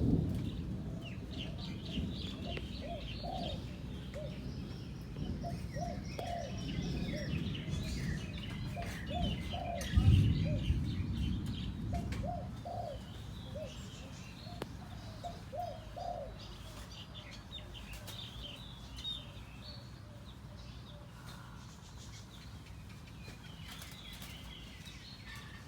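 A decoy dove cooing: phrases of short, repeated low coo notes that thin out after about sixteen seconds, with small birds chirping higher up. A low rumble comes at the start and again about ten seconds in.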